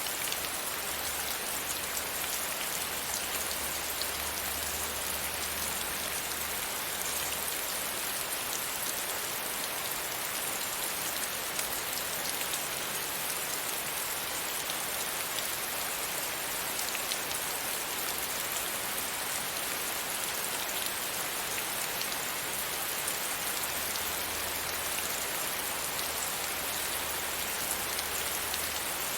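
Steady rain pattering against a window pane, a constant hiss with the fine ticks of individual drops. A faint low rumble sits underneath at times.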